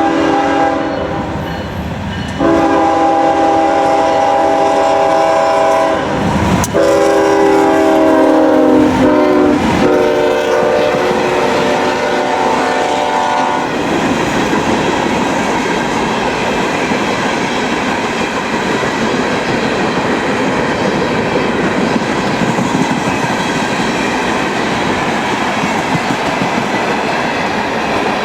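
Tropicana juice train passing at speed: the locomotive's chime horn blows long blasts, dropping slightly in pitch about ten seconds in as it goes by and stopping about fourteen seconds in. After that comes the steady rumble and wheel clatter of the cars rolling past.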